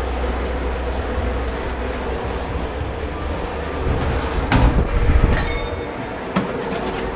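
Steady low rumble of commercial dish pit machinery, with dishware clattering and knocking several times in the second half and a brief hiss just before.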